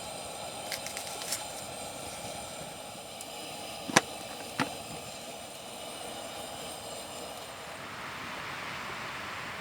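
Steady outdoor background hiss with a few faint clicks early on, then two sharp clicks or taps about half a second apart, around four seconds in.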